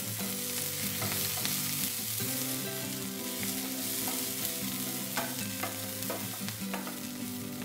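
Chopped green beans and onions sizzling in hot oil in a non-stick frying pan, stirred with a wooden spatula that scrapes and taps against the pan now and then.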